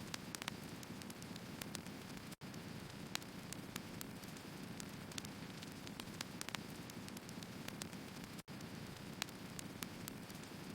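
Burning firewood crackling and popping over a steady hiss and low rumble of flame, with frequent sharp snaps. The sound cuts out for an instant twice.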